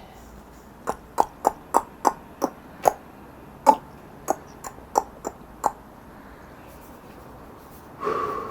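About a dozen sharp, short clicks at an irregular pace, then a drawn-out voiced sound beginning near the end.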